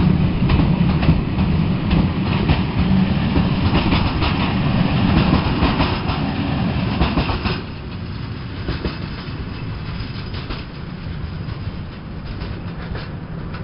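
Train running along the track, wheels clicking over the rail joints. The sound drops off sharply a little past halfway, then runs on more quietly.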